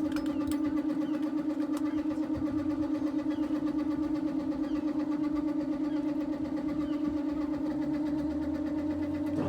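A motor running steadily at one pitch with a fast even pulse, cutting off near the end.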